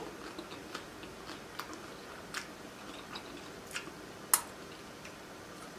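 A person chewing a mouthful of taco close to the microphone, with scattered wet mouth clicks and smacks. A sharper smack comes about four seconds in as she licks her fingers.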